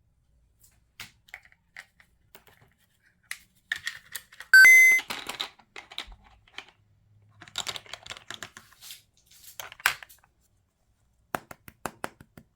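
Coloring on paper: scattered clicks and taps of the coloring tools, with stretches of scratchy strokes across the page. A brief, loud squeak with a clear pitch comes about four and a half seconds in.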